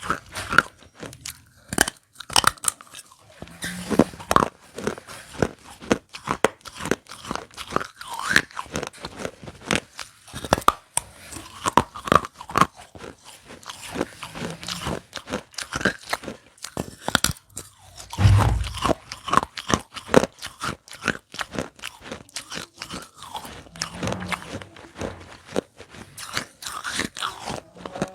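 Broken fired clay pot pieces being bitten and chewed close to the microphone: a dense, irregular run of sharp cracks and gritty crunches. A louder low thump comes about two-thirds of the way through.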